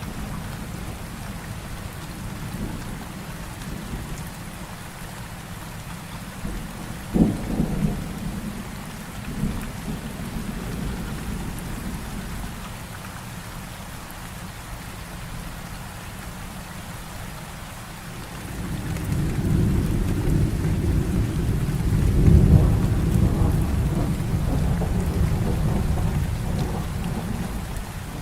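Heavy rain falling steadily during a thunderstorm. About a quarter of the way in comes a sharp crack of thunder, and in the second half a long low rumble of thunder swells up, loudest near the three-quarter mark, then fades.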